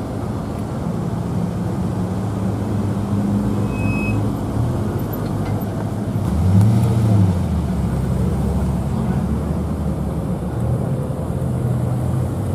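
Car engines running at low revs, with one engine briefly rising and falling in pitch about six seconds in, the loudest moment.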